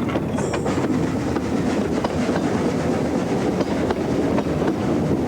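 Narrow-gauge train running, a steady rumble with many short clicks of wheels over the track.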